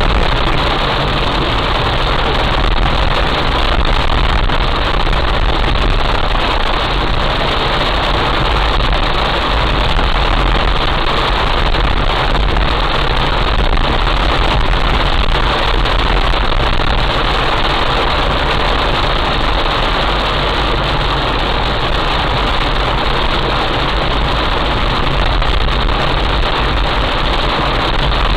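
Heavy rain falling: a steady, dense hiss with a low rumble underneath, unchanging throughout.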